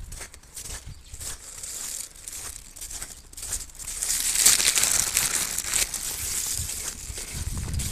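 Footsteps crunching in fresh snow at a walking pace, about two steps a second. A louder hiss swells and fades in the middle.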